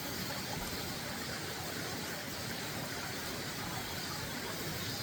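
A mountain valley stream running high after rain: a steady, even rush of water.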